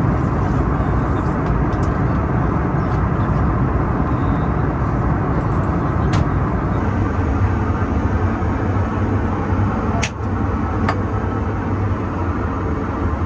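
Steady cabin noise of an Airbus A321neo in cruise: a constant deep rush of air and engine noise. A few short sharp clicks sound about six, ten and eleven seconds in.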